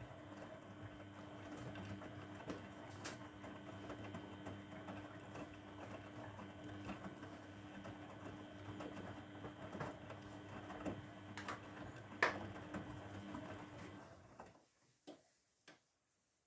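Grundig washing machine drum turning during the wash, a steady motor hum with laundry knocking in the drum; the drum stops about two seconds before the end, leaving a few faint clicks.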